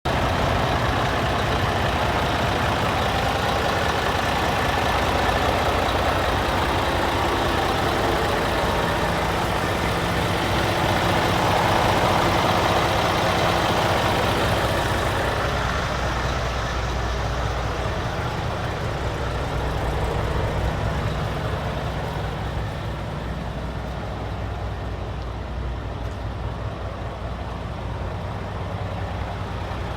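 Diesel engine of a Scania P360 8x4 tipper truck running steadily. It is loudest about twelve seconds in, then turns duller and quieter from about halfway.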